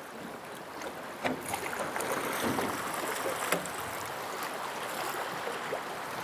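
River water rushing and splashing around a rowed boat, growing louder about a second in, with a couple of sharp knocks.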